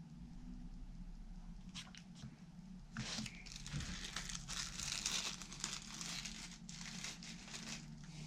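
Crinkling, handled in quick bursts from about three seconds in, after a couple of brief crackles, over a steady low hum.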